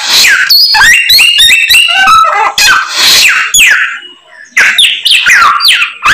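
A songbird kept by Indonesian bird-keepers as a 'samyong' singing a fast, loud, varied song of chirps, rising and falling whistles and trills, strung together from mimicked calls of other birds. The song pauses briefly about four seconds in, then starts again.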